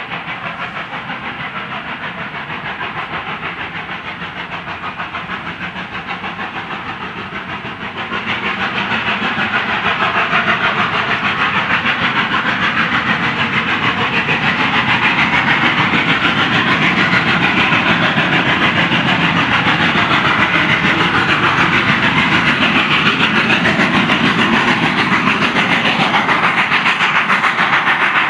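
Steam tank locomotive working with its train, a continuous hiss and rattle of steam and wheels that grows louder about eight seconds in and then holds steady.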